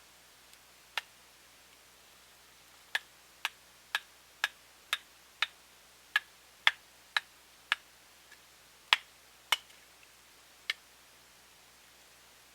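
A series of sharp clicks or taps: a single one, then a run of about two a second, then a few more spaced out.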